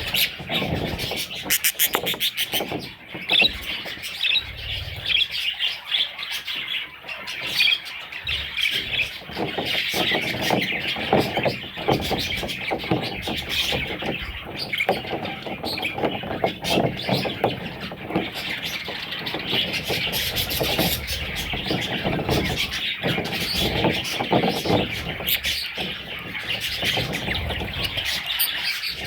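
Budgerigars chattering and warbling without a break, many quick chirps overlapping.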